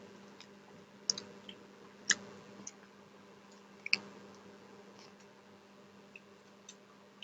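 Light clicks and clinks of eating from plates and bowls by hand, a few sharper ones about a second apart and then fainter ticks, over a steady low hum.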